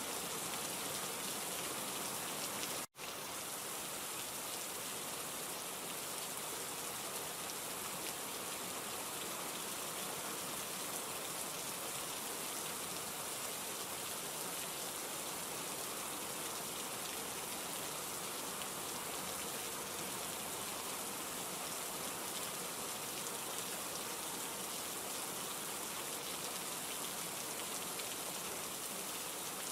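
Steady rain falling, an even hiss without thunder or other events. It drops out for an instant about three seconds in.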